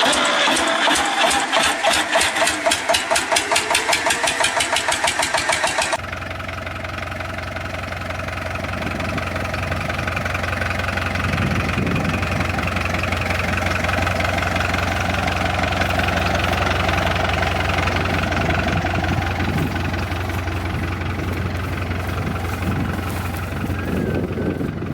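Fiat Agri 70-66 tractor's diesel engine running while working a straw baler: a fast, even pulsing for the first six seconds, then, after a sudden change, a steady low running drone.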